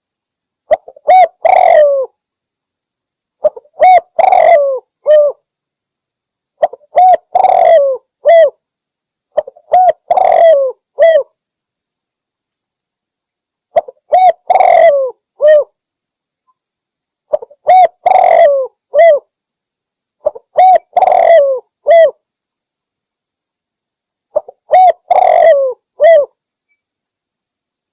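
Spotted dove (derkuku Jawa) cooing: a short phrase of several coo notes, repeated about eight times, each phrase lasting one to two seconds with silent gaps between.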